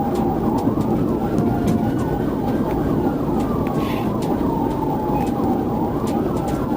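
Police car siren in a slow wail, its pitch rising and falling once over about five seconds and starting to rise again near the end, with quicker short sweeps alongside. Heavy engine and road noise from the pursuing vehicle runs beneath it.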